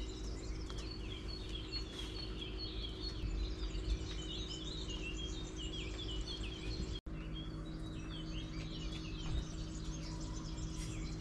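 Several birds chirping and singing in the trees, short calls overlapping throughout, over a steady low rumble. The sound drops out briefly about seven seconds in.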